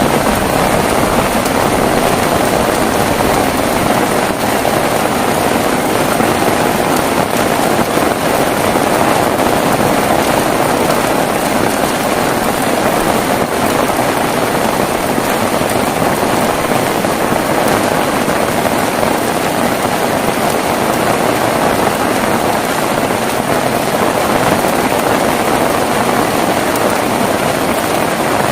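Heavy rain falling steadily, a dense even hiss with no let-up and no thunder claps.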